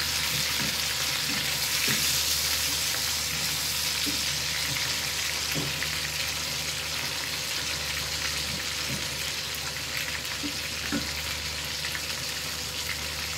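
Hamburger steak patties frying steadily in oil and their own juices in a nonstick pan, nearly cooked through, with a few light touches of a plastic spatula against the pan.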